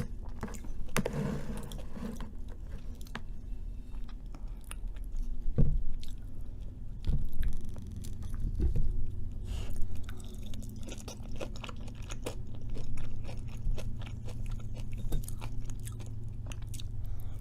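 A person chewing food with many small crunches and wet clicks from biting.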